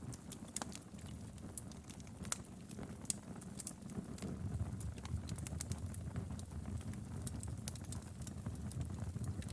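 Wood fire burning in a fireplace, with a steady low rumble and many sharp, irregular crackles and pops.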